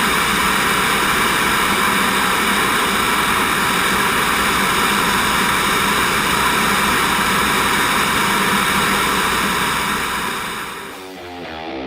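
T-38 Talon jet trainer's cockpit noise: a steady rush of engine and airflow with several constant whining tones, fading out about ten to eleven seconds in. Guitar music starts just before the end.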